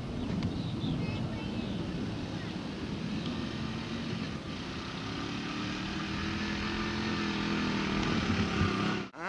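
A small engine running, its pitch rising and falling as it revs, cut off abruptly near the end.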